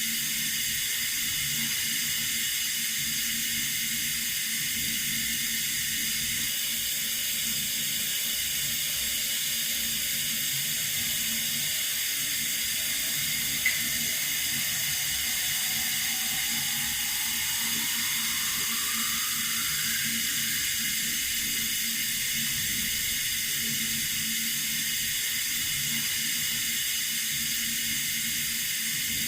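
Water running steadily from a tap, an even hiss. One brief click about halfway through.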